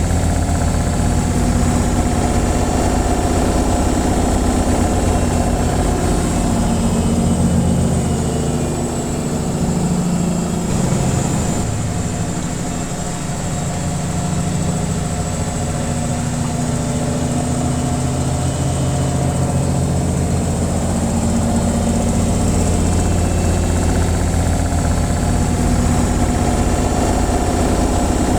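Washing machine on its spin cycle: a steady, loud motor hum with the drum spinning and vibrating. It eases off slightly about a third of the way through, then settles back.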